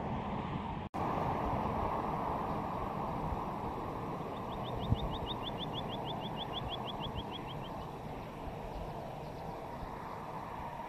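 A small bird's trill of about twenty quick, evenly spaced high notes, falling slightly in pitch over about three seconds, over a steady rushing outdoor background. The sound drops out briefly about a second in, and a single sharp knock comes about five seconds in.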